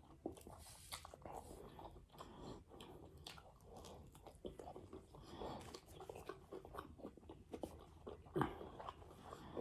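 A person chewing crunchy food close to the microphone, with many small irregular crunches and a louder crunch near the end.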